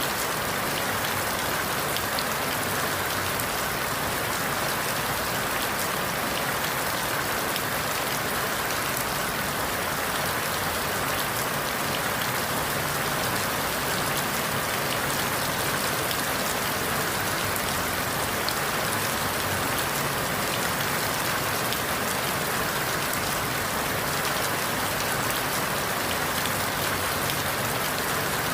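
Steady rain falling through forest leaves, a continuous even hiss of rain with countless small drops pattering.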